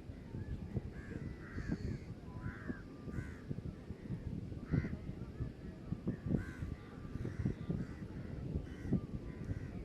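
Crows cawing repeatedly, short harsh calls coming one after another throughout, over a steady low rumble.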